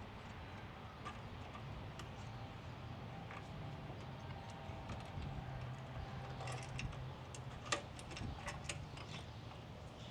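Small metallic clicks and ticks of hand tools working a nut off a motorcycle exhaust clamp, thickest a little past the middle, over a low steady hum.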